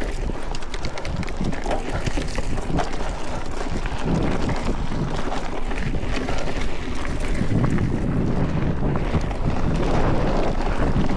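Mountain bike descending a dirt trail: tyres rumbling over rough ground, with many small knocks and rattles from the bike, and wind buffeting the microphone.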